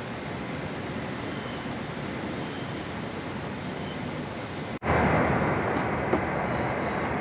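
Steady rushing background noise with no distinct event. It cuts out for an instant nearly five seconds in and comes back clearly louder.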